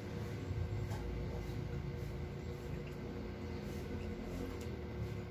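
A person chewing food with soft mouth sounds and a few faint clicks, over a steady low hum.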